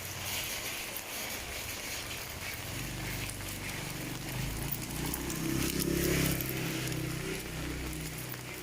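Steady hiss of falling rain. A vehicle's engine hum comes in a few seconds in, swells to its loudest a little past the middle and fades near the end as it passes by.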